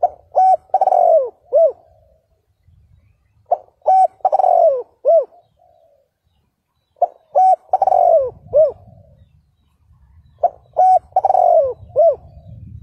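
Spotted dove (cu gáy) cooing: four phrases of about five arching coos each, one phrase roughly every three and a half seconds. A faint low rumble comes in during the second half.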